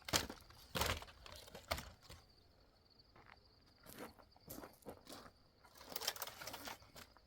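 Scattered short rustles and knocks, about a dozen irregular bursts with quiet gaps between them, over a faint steady high tone.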